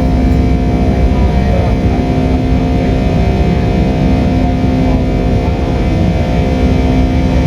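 Pratt & Whitney PW2000 turbofan of a Boeing 757-200 running at takeoff power, heard inside the cabin: a steady drone made of several held tones over a deep rumble.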